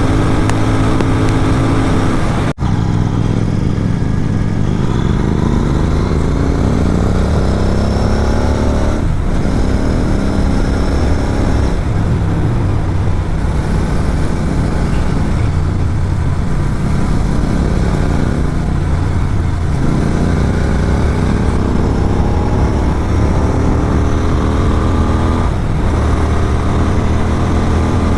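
Motorcycle engine with an Atom exhaust running hard at highway speed, its pitch rising and falling with throttle and gear changes. A very brief drop-out about two and a half seconds in.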